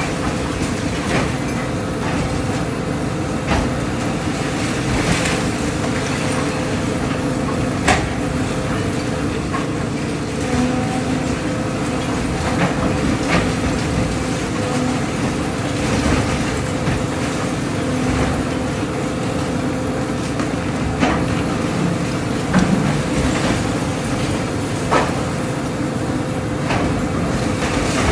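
Excavator's diesel engine running steadily during demolition, with scattered sharp knocks and cracks of the building being broken up, the loudest about eight seconds in.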